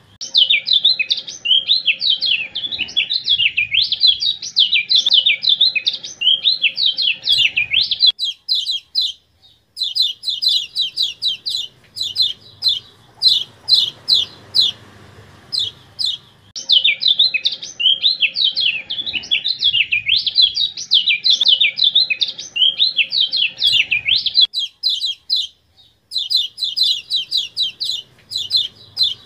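Kecial kuning (a white-eye) song on an edited, partly AI-modified training track. About eight seconds of fast, jumbled, high twittering give way to a run of quick, sharp, downward chirps at roughly four a second, and the two-part pattern then repeats.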